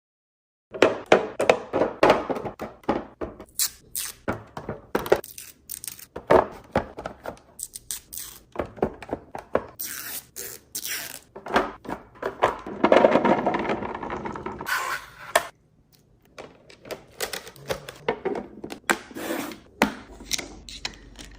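Containers and food items being handled and set down while a refrigerator is arranged: irregular knocks, clicks and scrapes one after another, with a denser stretch of continuous handling noise around the middle.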